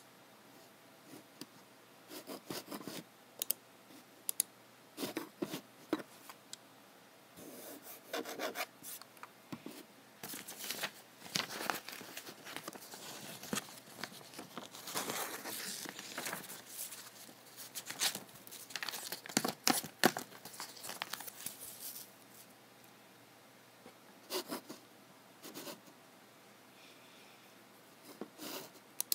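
Desk handling during computer work: scattered clicks mixed with rubbing and scraping noises, busiest in the middle and sparse near the start and end.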